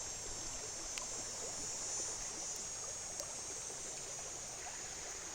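River flowing steadily, a constant rush of water, with a steady high buzz of insects over it and a couple of faint clicks.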